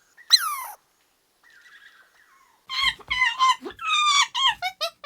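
An animal's high-pitched calls: one sharp falling squeal near the start, then, from about halfway through, a rapid string of short wavering yelps.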